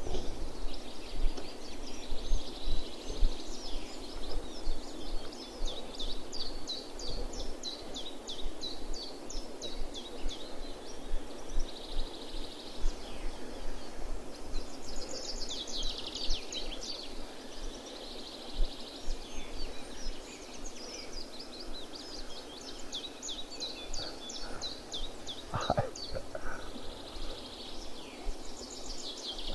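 Songbirds singing, repeated high, rapid trilled phrases every few seconds over a steady outdoor rustle, with one short knock near the end.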